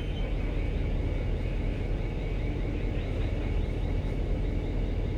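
Steady low rumble of a ship's engines and machinery as the vessel manoeuvres at slow speed while berthing.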